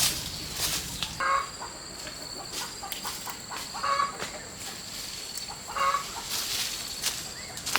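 Chickens clucking, a short call every two seconds or so, among scattered clicks and rustles, over a faint steady high-pitched tone.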